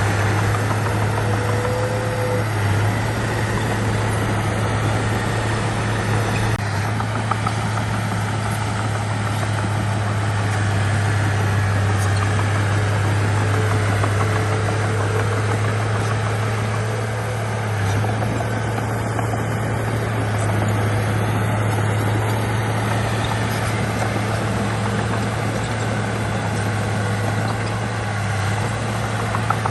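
Diesel engine of heavy earthmoving equipment, a bulldozer or dump truck, running steadily with a constant low drone.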